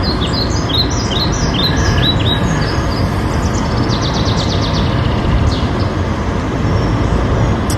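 Steady road and engine rumble inside a moving car. Over it, a run of short high chirps in the first couple of seconds and a quick high trill about four seconds in.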